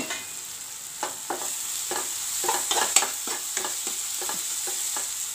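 Onion-tomato masala sizzling in a nonstick kadai as a metal slotted spatula stirs and scrapes it, in a quick run of scrapes from about a second in. The spice powders are being fried in the oil to cook off their raw smell before water goes in.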